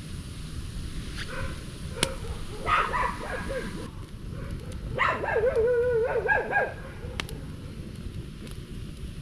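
An animal's high, wavering calls in two short bouts, the second longer and loudest, over a steady hiss of rain, with a couple of sharp clicks.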